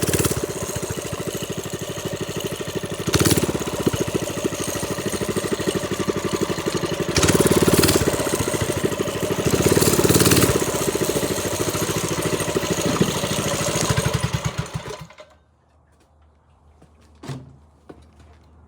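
Trailmaster Storm 200 minibike's single-cylinder engine running, briefly revved up three times, then shut off about fifteen seconds in. A single short knock follows a couple of seconds later.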